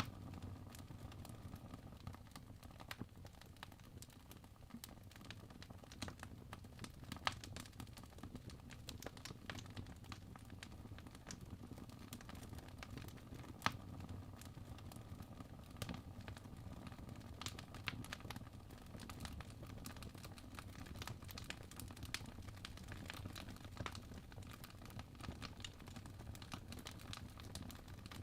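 Fireplace crackling: a steady low rumble of burning wood with many small irregular snaps, and two louder pops, about seven and fourteen seconds in.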